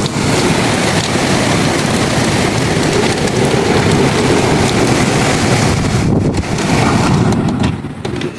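Heavy rainstorm with strong wind: a loud, steady rush of rain with wind buffeting the microphone. The rush thins out about six seconds in and the level drops near the end.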